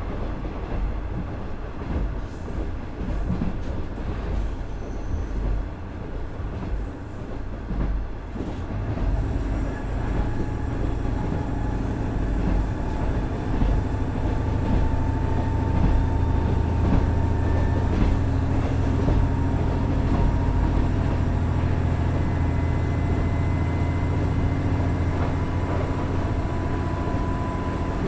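KiHa 110 series diesel railcar running on the rails: wheel and track rumble, then from about nine seconds in its Cummins DMF14HZA diesel engine comes in as a steady low drone under power, with a thin whine that slowly rises in pitch.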